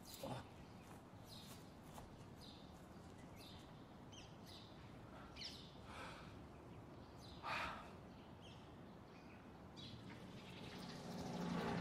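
Birds chirping outdoors, short high calls roughly once a second over a faint background, with a louder short call about seven seconds in.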